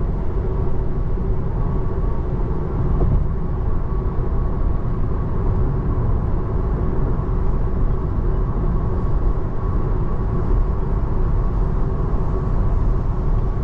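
Steady road and tyre noise heard from inside the cabin of a moving Tesla Model 3, a continuous low rumble with no engine sound, since the car is electric.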